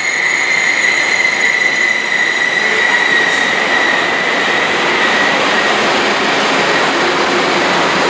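Train passing close by: a loud, steady rushing rumble of wheels on rail, with a high steady squeal that fades out about five seconds in.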